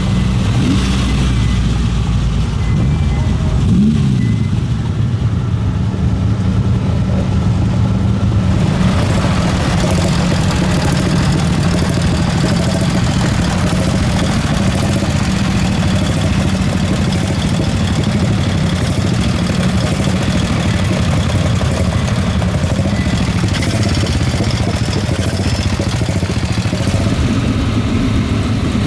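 Car engines running at low speed, with a short rev that rises and falls about four seconds in, then more general engine and road noise from about eight seconds on.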